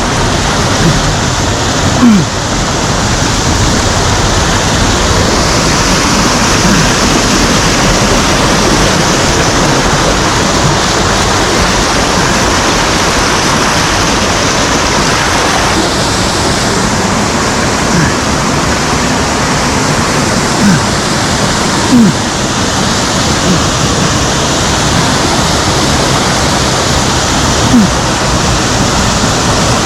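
Mountain stream water rushing over rocks and small falls, a loud, steady rush close by, with a few brief thumps along the way.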